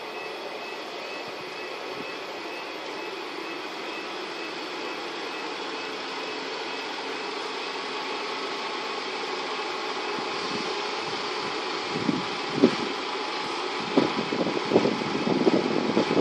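A Class 158 diesel multiple unit approaching: a steady engine and rail noise that slowly grows louder, with a run of sharp knocks from the wheels on the track starting about twelve seconds in.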